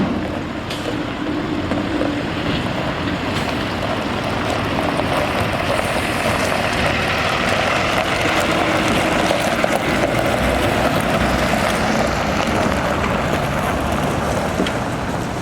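Freightliner M2 dump truck on the move: its Cummins B6.7 diesel running under steady road and wind noise, growing louder toward the middle and easing off near the end.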